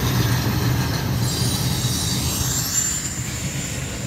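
CSX double-stack intermodal freight train rolling past, its well cars and wheels making a steady rumble on the rails that eases slightly near the end.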